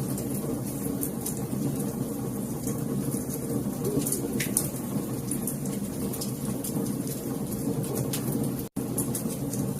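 Wood fire in a fireplace crackling, with many small sharp pops over a steady low rumble of the flames. The sound cuts out for a split second near the end.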